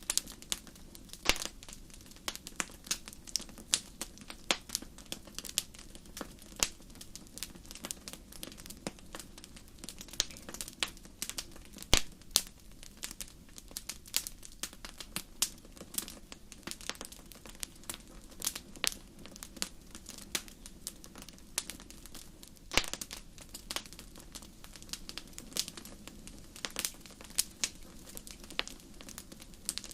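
Wood fire crackling in a fireplace: irregular sharp pops and snaps over a low, steady rumble of the flames, with one louder pop about twelve seconds in.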